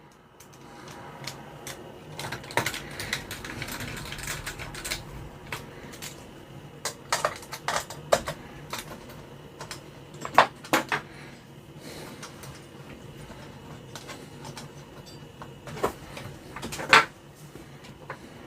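Scattered clicks, taps and knocks of small metal parts and hand tools being handled on a workbench as an amplifier component is refitted, with two louder knocks about ten seconds in and near the end. A faint steady hum runs underneath.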